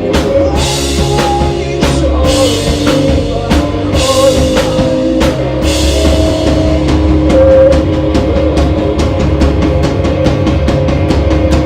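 Rock band playing live at full volume: a driving drum kit under sustained electric guitars, with some singing.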